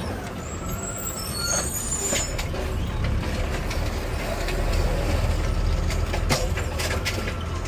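Garbage truck's diesel engine running, heard from inside the cab, a steady low rumble with a few sharp knocks and rattles.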